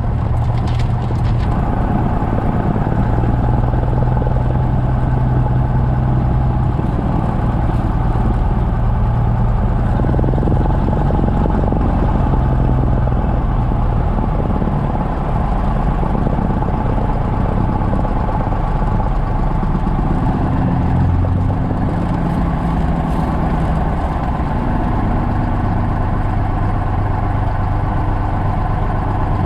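Cessna 172's piston engine and propeller droning steadily, with small shifts in pitch about two-thirds of the way through.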